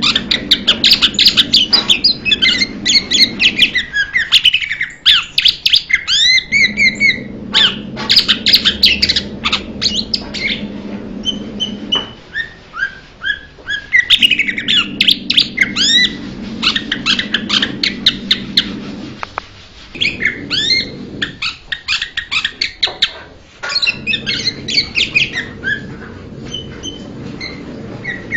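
Blue-winged leafbird singing: rapid, varied chattering phrases of quick high chirps and slurred whistles, coming in bursts of several seconds with short pauses between them.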